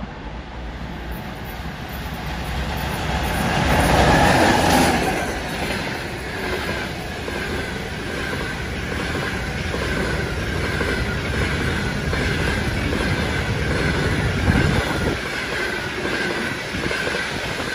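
Passenger train hauled by an EP2K electric locomotive passing close by. The locomotive's approach builds to the loudest point about four to five seconds in, then the coaches follow with a steady rumble, rhythmic clickety-clack of wheels over the rail joints and a thin high whine.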